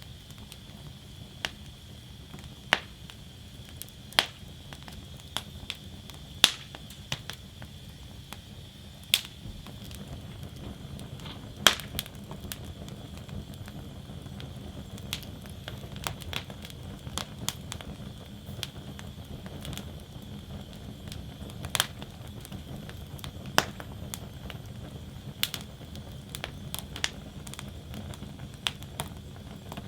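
Wood fire crackling in a fire basket: irregular sharp pops and snaps every second or so, a handful of them louder, over a steady low rumble of the flames.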